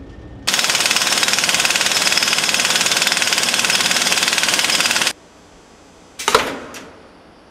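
Loud, rapid-fire hammering of a pneumatic power tool in a railcar workshop, starting and stopping abruptly after about four and a half seconds. About a second later comes a single metal clank that rings out briefly.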